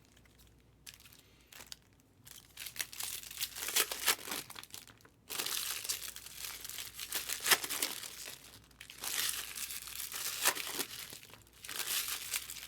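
Foil trading-card pack wrappers being torn open and crinkled in the hands, in irregular crackling spells after a quiet first two seconds.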